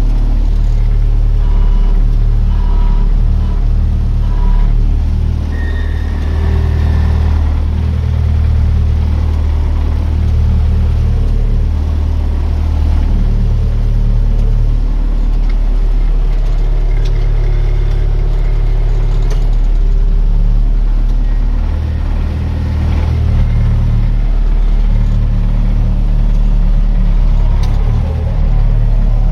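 Tractor engine running, its speed rising and falling several times.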